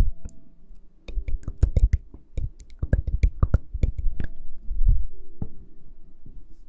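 A quick, irregular run of sharp clicks and taps close to the microphone, about twenty in three seconds, then a few scattered ones.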